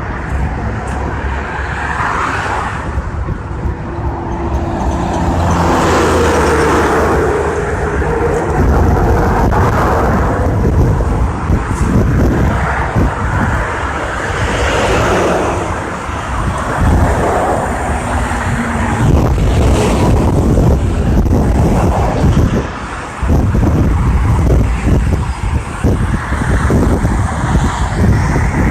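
Heavy diesel engine running steadily and loud, its pitch shifting up and down at times, with a short drop in level about two-thirds of the way through.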